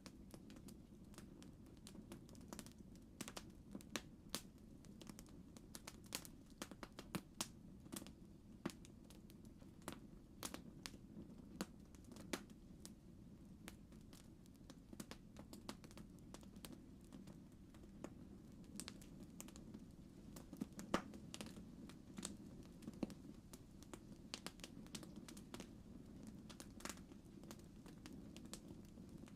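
Campfire crackling: irregular sharp pops and snaps over a low steady rumble of burning wood.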